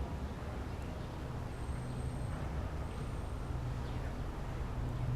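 Low, steady rumble of distant city traffic with a constant hum, and two faint, thin high tones about two and three seconds in.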